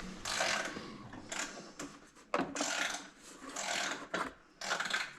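Hand ratchet clicking in short, irregular bursts, working a fastener on the motorcycle's fairing.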